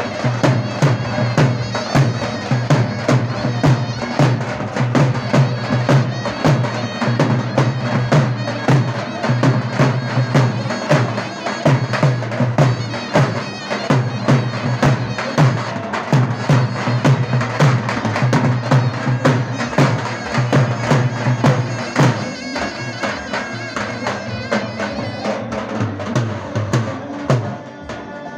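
Davul and zurna playing folk dance music: rapid, dense drum strokes under a shrill, reedy melody. The level drops near the end.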